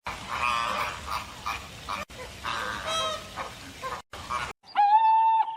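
Birds giving harsh, goose-like honking calls, broken by abrupt cuts. Near the end comes a different, louder call: one clear, steady note of just under a second with a quick rise at its start.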